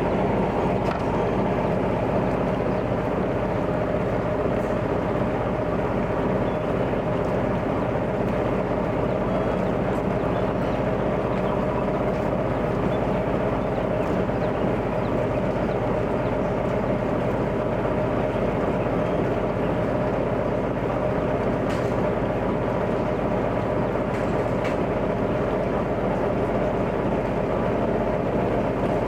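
A small harbour ferry boat's engine running steadily under way: an even drone holding several steady tones, with no change in speed.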